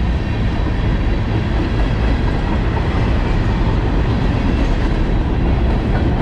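CSX freight train rolling past, a steady loud rumble of wheels on the rails.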